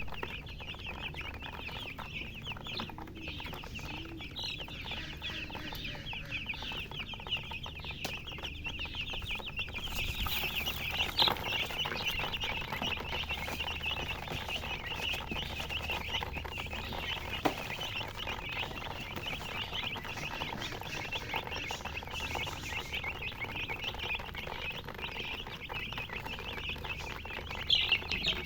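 A brood of baby chicks peeping continuously, many short high cheeps overlapping, with a few sharp taps now and then.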